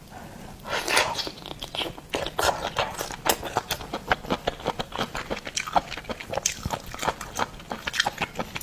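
Close-up mouth sounds of seafood being bitten and chewed: a quick, uneven run of wet clicks and smacks, with a louder bite about a second in.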